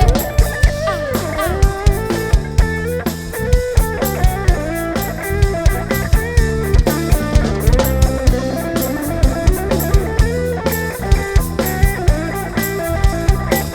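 Live band playing an instrumental break: a drum kit keeps a steady beat over a bass line while a lead instrument plays a melody with bending notes.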